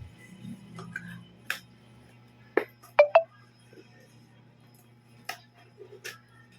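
Scattered light clicks and knocks of the motherboard's box and accessories being handled, with two sharp, briefly ringing clinks about three seconds in.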